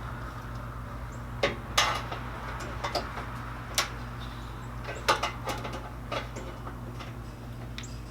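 Irregular metallic clanks and knocks from exhaust parts and tools being worked into place on a side-by-side: about seven sharp strikes, bunched near 2 s and 5 s in, over a steady low hum.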